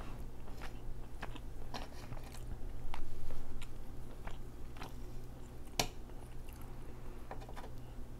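Close-miked mouth sounds of a person chewing noodles and salmon, with small wet clicks throughout. The chewing is louder for about half a second around three seconds in, and there is a single sharp click near six seconds.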